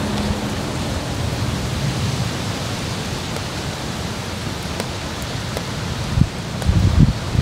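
Loud steady rushing noise swamping the recording, with a few low thumps near the end.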